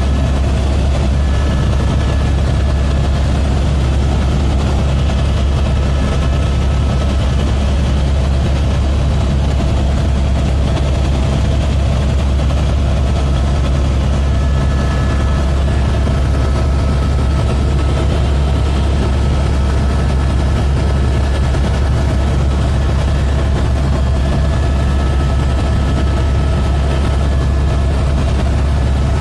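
Helicopter in flight, a loud, steady low drone that does not change.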